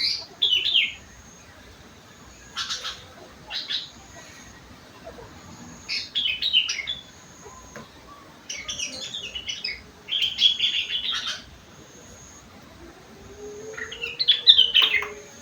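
Sooty-headed bulbul (kutilang) singing in short chirping phrases with pauses between them, its song filled with rengganis and cucak wilis phrases. The last phrase is the loudest.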